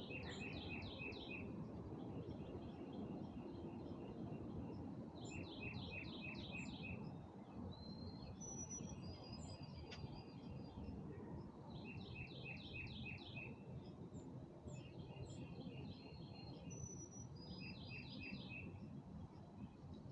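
Songbirds singing at dusk: one bird repeats a short phrase of five or six quick notes about every five seconds, with a few thin high whistles from another bird in between, over a steady low background rumble.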